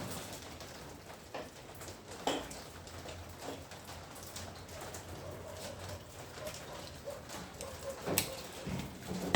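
A few scattered light clicks and knocks of a wrench working on the washing machine's bolts, the loudest about eight seconds in, over a faint low hum.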